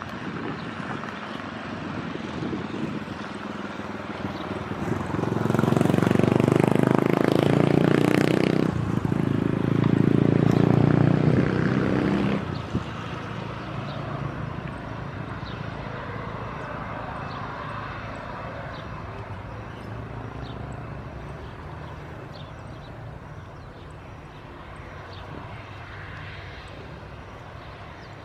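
Jet engines of an Airbus A319 running at taxi power, with a much louder rumbling stretch from about five to twelve seconds in that drops off suddenly, then slowly fading.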